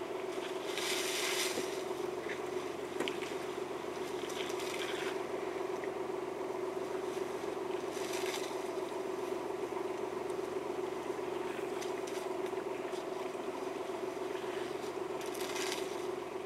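Steady hum of an idling car engine. Over it come four short bursts of rustling and scraping as elephants pull and strip leafy bush branches: about a second in, around four and eight seconds, and near the end.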